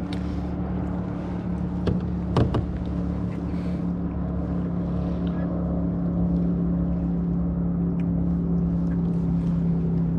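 Motorboat engine running steadily on the lake, a low drone that grows slightly louder and drops a little in pitch near the end. A few sharp knocks about two seconds in.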